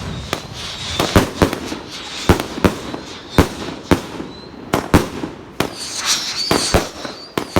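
A 100-shot firework cake firing: a quick, uneven string of sharp bangs, about two or three a second, with hissing and crackling between the shots.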